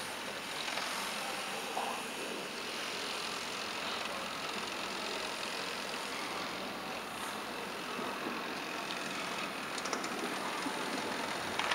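Steady noise of a large railway station yard, with trains running in the distance and a few faint rattles near the end.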